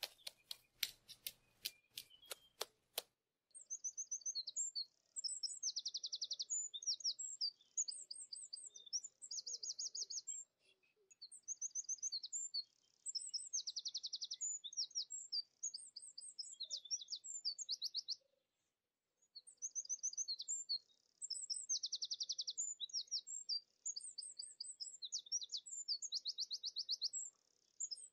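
A small songbird singing in repeated phrases of high chirps and fast trills. The first few seconds hold a quick run of sharp clicks before the song begins.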